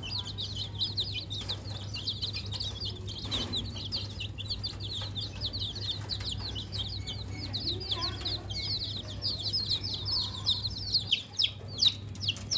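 A flock of budgerigars chirping and chattering nonstop, rapid high chirps overlapping, over a steady low hum. A brief lower call comes about eight seconds in.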